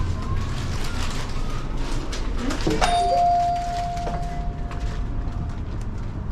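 A single chime about three seconds in, one clear ding that rings on for nearly three seconds, typical of a shop-door entry chime, over the bustle and small knocks of a store.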